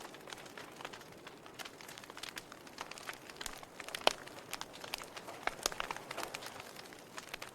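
Wood fire crackling in a fireplace: irregular sharp pops and snaps over a soft hiss, with the sharpest pop about four seconds in.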